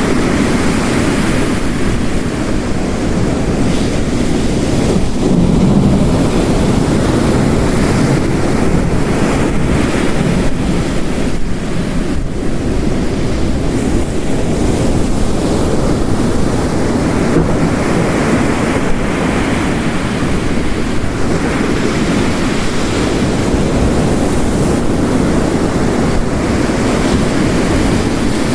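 Ocean waves crashing on the coast, mixed with heavy rain: a steady, loud rush of noise, deepest in the low range, that swells and eases with the surf.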